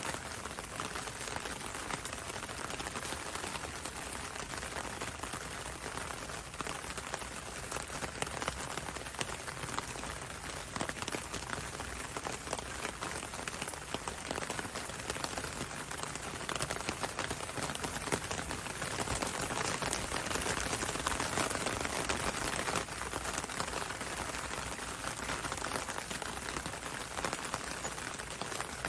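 Steady gentle rain pattering on a window and a road, a dense hiss of many small drop ticks, swelling slightly a little past the middle.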